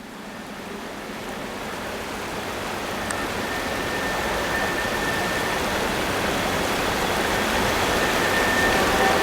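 Train approaching, its rumble growing steadily louder, with faint steady squealing tones over it.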